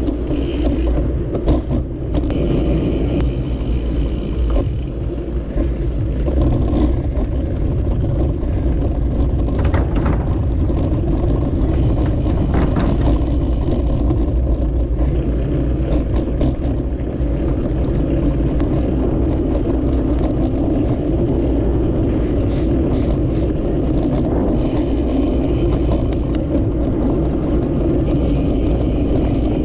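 Steady rumbling road and wind noise from a moving bicycle ride, with vehicle traffic running alongside.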